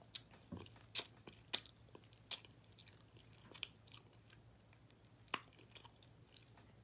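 A man chewing barbecue ribs in sauce, close to the microphone: sharp, wet mouth clicks and smacks at uneven intervals, a second or so apart.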